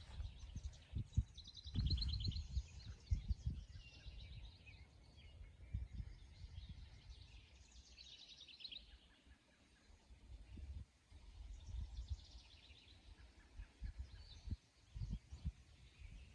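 Songbirds singing outdoors, with quick trills of repeated high notes; a strong trill comes about two seconds in, and another about eight seconds in slides downward. Low irregular rumbles and bumps sound underneath.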